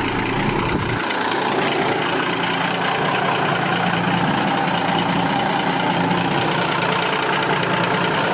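Caterpillar 3406B inline-six diesel truck engine idling steadily, not long after a cold start.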